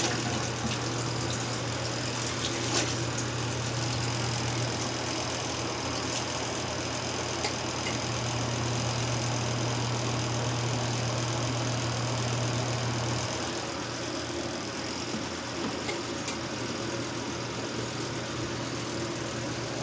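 Portable washing machine running its wash cycle, its motor giving a steady low hum that eases off about thirteen seconds in.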